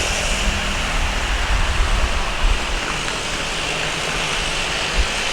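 Jet engine noise from a Boeing 737-800's CFM56 turbofans as the airliner comes in to land: a steady roar with a high whine above it, and gusts of low rumble.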